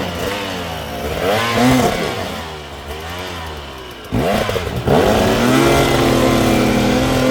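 Enduro dirt bike engine revving up and down under changing throttle. A little after four seconds in it jumps sharply to high revs and holds there.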